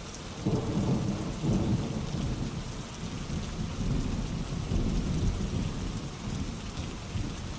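Steady rainfall with low, rolling thunder that swells about half a second in and rumbles on under the hiss of the rain.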